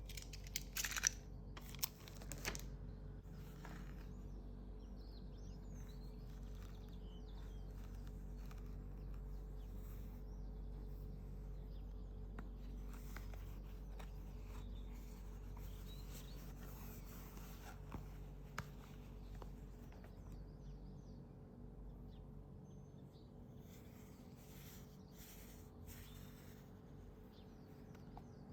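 Perfume box and packaging being handled: a few sharp clicks and taps in the first couple of seconds over a faint steady hum, followed by faint bird chirps in the background.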